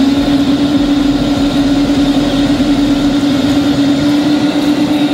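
Speedboat engine running steadily at speed: one strong, even hum over a loud rush of wind and water.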